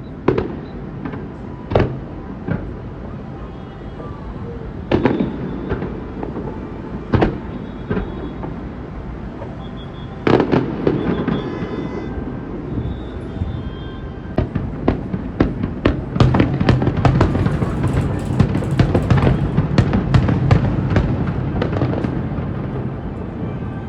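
Aerial fireworks bursting: single loud booms a few seconds apart, then a rapid run of many bangs and crackles in quick succession over several seconds.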